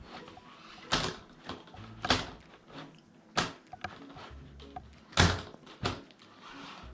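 Several sharp knocks, irregularly spaced, the loudest about five seconds in, over quiet background music.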